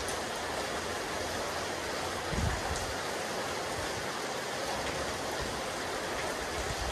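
Steady rain falling on a rooftop terrace, an even hiss, with a brief low rumble about two and a half seconds in.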